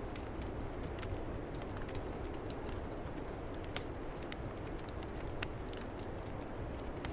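Wood fire crackling with irregular sharp pops over a steady low rush of snowstorm wind.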